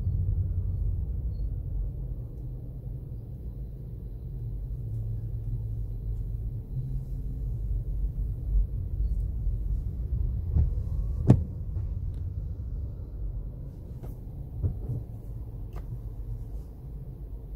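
Low rumble of a Toyota Corolla's engine and tyres heard inside the cabin while driving, easing off over the first few seconds. A single sharp knock comes about eleven seconds in, with a few faint ticks after it.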